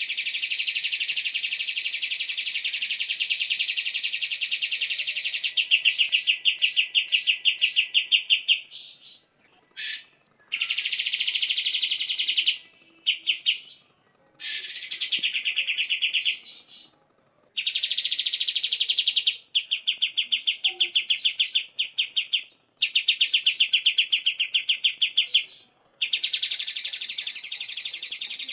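White-rumped shama (murai batu) singing in long, very fast rattling trills of several seconds each, broken by short pauses and a few brief sharp whistled notes.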